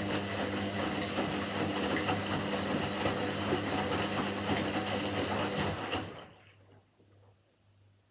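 Washing machine in its spin cycle, running with a steady hum and a dense rattle. About six seconds in the sound drops away sharply, leaving only a faint pulsing hum.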